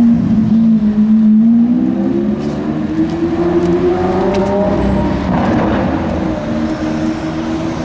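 Lamborghini Aventador S's naturally aspirated V12 engine running: its note dips a little, climbs for a few seconds as the revs rise, swells briefly about five seconds in, then holds steady at a higher pitch.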